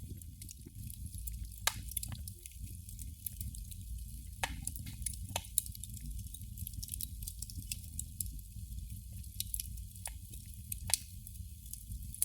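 Candle flame crackling: irregular small ticks and pops, with a few louder pops spread through, over a steady low rumble.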